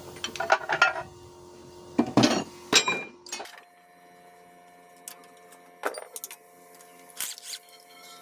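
Metal hand tools clinking and knocking against engine parts in a few separate strikes, the loudest cluster about two seconds in, over a faint steady hum.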